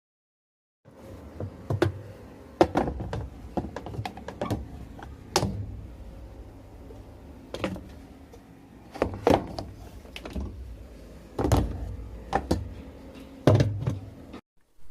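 Irregular knocks and clunks, about a dozen, from washing-machine parts being handled and knocked during maintenance work on the machine and its agitator. They start about a second in.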